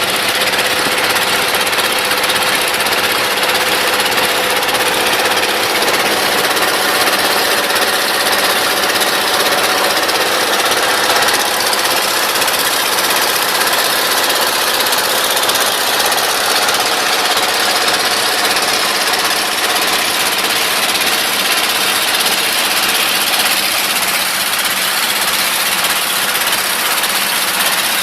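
A small boat's engine running steadily at close range, with a rattling, knocking chug.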